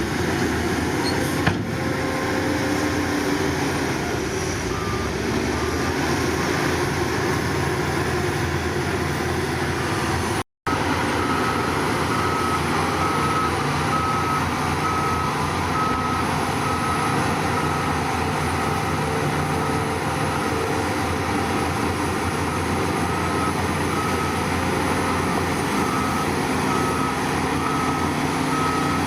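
Heavy diesel earthmoving machinery running steadily under load. After a brief break about ten seconds in, a reversing alarm starts beeping about twice a second.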